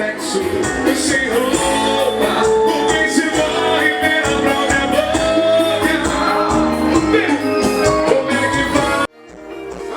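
Live band music with a voice singing. About nine seconds in it cuts off abruptly, and the music fades back in a moment later.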